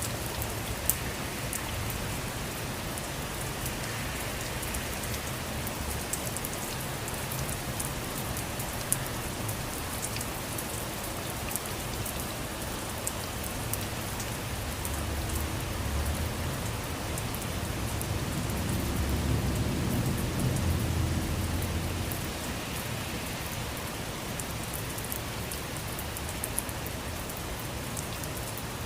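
Steady rain falling on a surface, with individual drops ticking sharply over the even hiss. A low rumble swells and fades about two-thirds of the way through.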